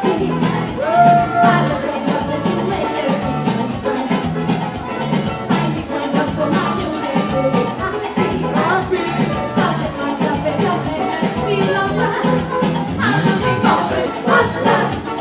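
Parang music played by a band, with shaken maracas over a steady repeating bass rhythm.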